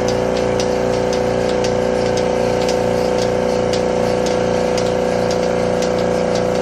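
A motor or engine running steadily at a constant speed, a loud even hum with a low pulsing underneath and light ticks about twice a second.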